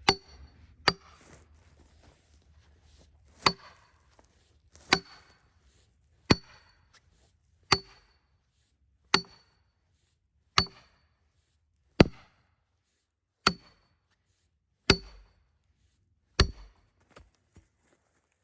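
Hammer blows ringing on a steel splitting wedge being driven into a cedar log, a dozen strikes at a steady pace of about one every second and a half, with a few light taps near the end.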